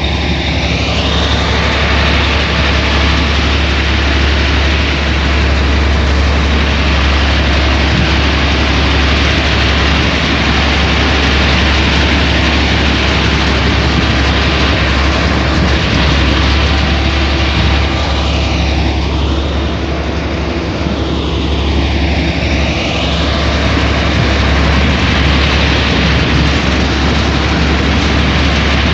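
Heavy diesel machinery of a road repair running steadily, a deep engine hum under continuous mechanical noise.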